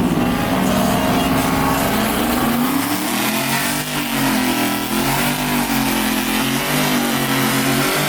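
Pickup truck engine revving through a loud exhaust, its pitch rising and falling, then a run of short repeated revs from about three seconds in.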